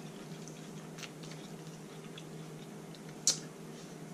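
Quiet chewing of seafood boil, with a few soft mouth clicks and one sharper click a little after three seconds in, over a steady low hum.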